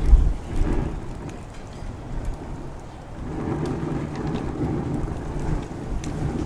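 Low rumbling gusts of wind on the microphone, strongest at the start and building again from about halfway, over the sparse crackle of a wood campfire.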